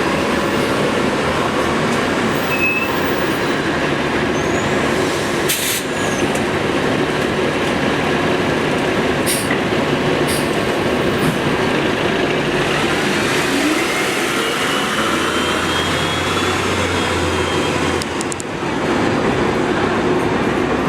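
Metro rail train running through an underground station, with steady rumble and rail noise. A motor whine rises in pitch partway through, and there are a few sharp clanks.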